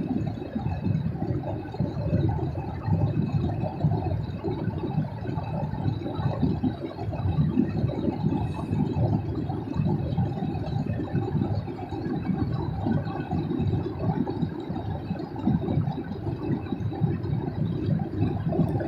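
Steady road noise of a car driving, heard from inside the cabin: a continuous low rumble of engine and tyres with no sudden changes.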